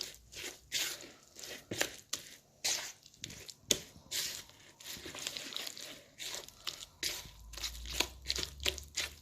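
A thick yogurt-and-spice marinade being stirred in a bowl: irregular wet squelching and scraping strokes, a few a second.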